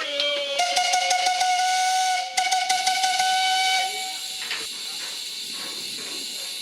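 Steam whistle blowing, a steady note sounded in two blasts with a short break about two seconds in, then a quieter steady hiss of steam.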